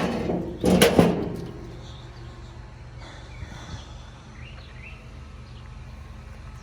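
A short, loud rustling noise about a second in, then steady low background hum with faint bird chirps.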